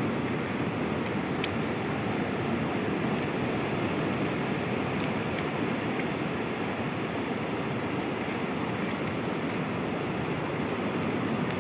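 Sea waves washing on the shore, a steady noise without breaks.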